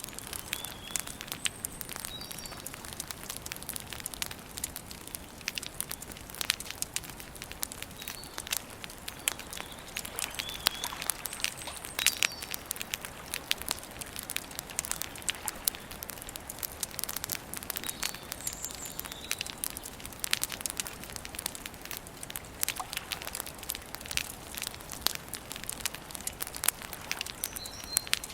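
Wood campfire crackling and popping in a dense, irregular stream of snaps, with short high bird chirps here and there.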